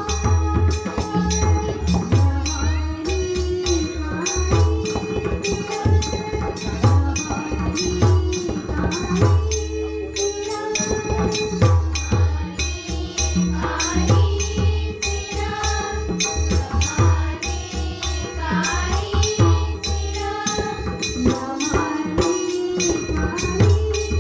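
Live Marathi bhajan music: a drum keeps a steady rhythmic beat with percussion strokes under a wavering melody line.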